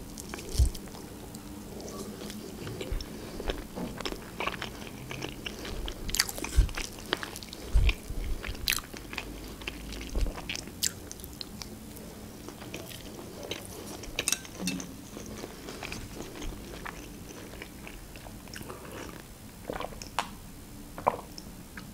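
Close-up biting and chewing of a soft slice of charlotte sponge cake topped with berries, with scattered small mouth clicks and smacks.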